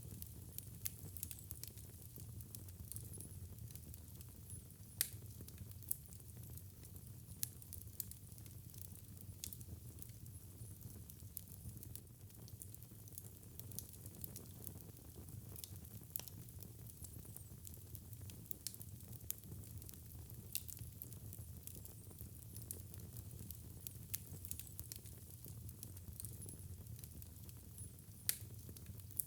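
Fire burning in a fireplace: a steady low rumble and soft hiss with frequent sharp crackles and pops, the loudest about five seconds in and again near the end.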